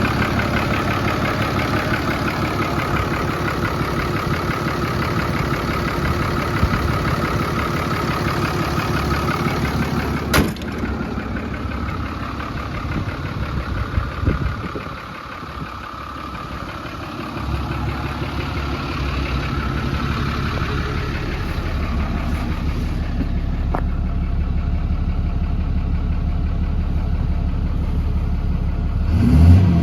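2010 Dodge Ram 5500's 6.7-litre Cummins inline-six turbo diesel idling. A sharp click comes about ten seconds in, and the engine sound is weaker for several seconds. From about seventeen seconds a deeper, steady idle picks up again.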